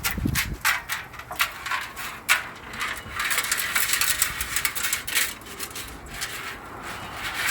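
Loose steel nuts clinking and rattling around inside a Honda CL350's steel gas tank as it is tipped and shaken to get the last nut out: scattered clinks, then a dense stretch of rattling about three seconds in that lasts a couple of seconds.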